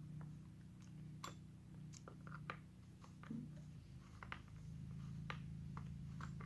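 Faint scattered clicks and light taps of small chainsaw parts being handled, over a steady low hum that gets a little louder about four and a half seconds in.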